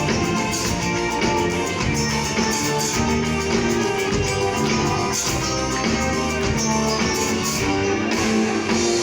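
Band playing an instrumental passage of a pop song without vocals, guitar to the fore.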